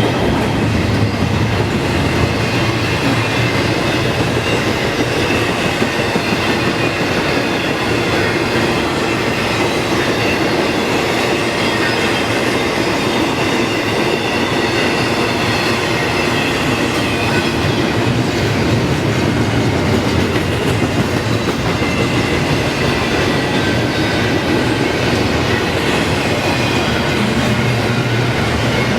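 Freight train cars rolling past, a steady loud noise of steel wheels on the rails. The railfan takes the train for a loaded intermodal.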